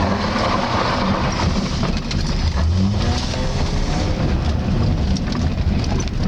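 Toyota 1JZ-GE 2.5-litre inline-six running through an Audi Q7 exhaust: a steady, loud low exhaust rumble.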